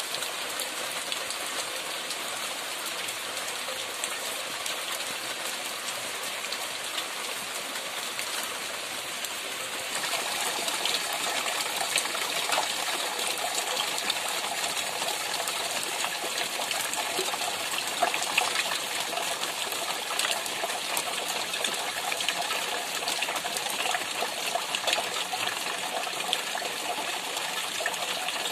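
Steady rain falling, with a dense patter of drops and water gushing; the rain grows heavier and louder about ten seconds in.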